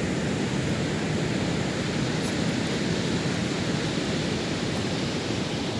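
Steady rushing noise of sea surf, with no breaks or single events.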